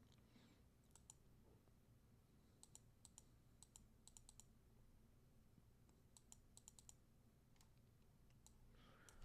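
Near silence: room tone with faint, scattered clicks in small clusters from a computer mouse and keyboard being worked.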